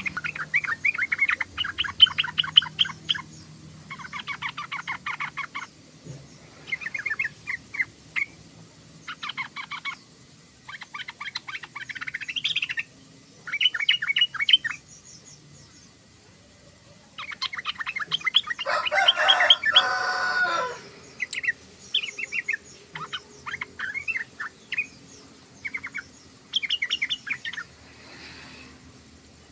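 Yellow-vented bulbul (trucukan) chattering: quick bursts of rapid, stuttering notes come in short phrases of a second or two with brief pauses between them. A louder, fuller burst comes about two-thirds of the way through.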